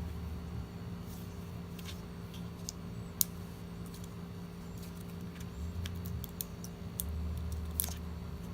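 Scattered light clicks and taps of small parts and tools being handled while the iMac is taken apart, irregular and a dozen or so in all, the sharpest about three seconds in and another near the end, over a low steady hum.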